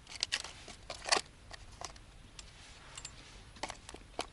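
Hands handling a fishing rig at close range: a string of small clicks and short rustles, the loudest about a second in.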